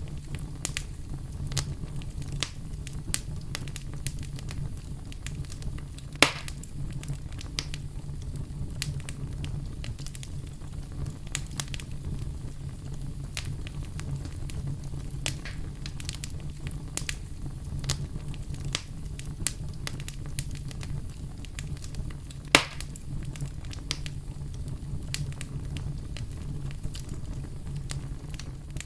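Wood fire in a fireplace crackling, with scattered small snaps throughout and two louder pops, about six and twenty-two seconds in, over a low steady rumble.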